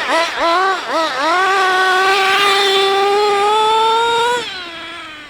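Small nitro engine of a Team C Stoke N RC car revving: several quick throttle blips, then a long high-pitched run at steady, slowly climbing revs. It drops off sharply about four seconds in, when the throttle is released.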